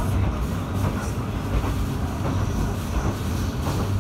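Matsuura Railway MR-600 diesel railcar running along the line, heard from inside the car: a steady low drone of engine and wheels on rail, with light clicks now and then.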